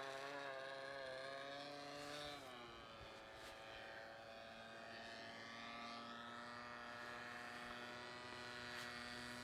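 A distant RC model airplane engine running steadily and faint. Its pitch drops about two seconds in, then holds lower. The engine has been running poorly and tending to die.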